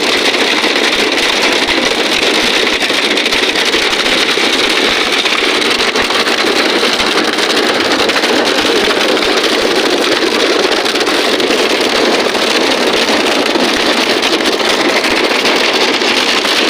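Heavy rain mixed with hail falling, a loud steady rush of dense impacts.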